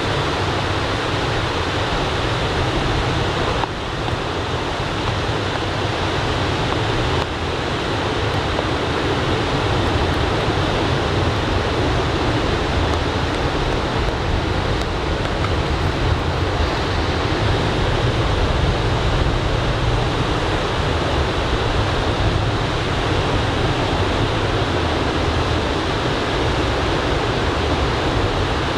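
Steady wash of ocean surf breaking on a sandy beach in typhoon swell, with light onshore wind on the microphone. The level dips briefly twice, about four and seven seconds in.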